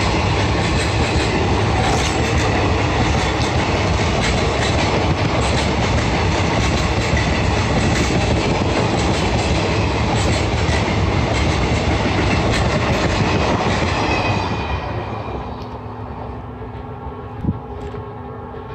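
Indian Railways passenger coaches passing at speed: a steady, loud rush of wheels on the track with clatter. About fourteen seconds in, the last coach goes by and the sound falls away and fades.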